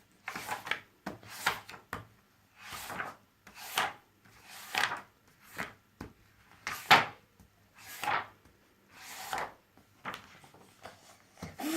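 A series of short scraping or rubbing noises, about one a second.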